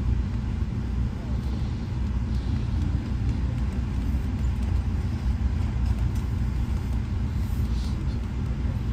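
Steady low rumble of an Amtrak passenger train car running along the track.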